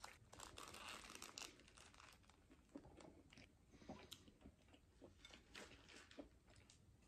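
Faint close-up eating sounds: chewing a burger and French fries, with scattered small wet mouth clicks and soft crunches, and light crinkles of the burger's paper wrapper.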